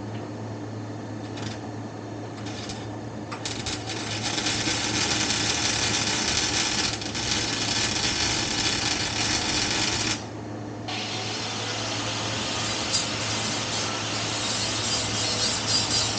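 Welding arc crackling in two long runs, with a short stop about ten seconds in, over a steady low hum.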